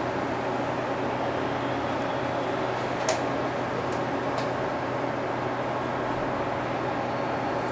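Cabin sound of a 2006 UD (Nissan Diesel) Space Runner RA city bus: a steady diesel engine hum under a constant air-conditioning hiss, with two brief clicks about three and four and a half seconds in.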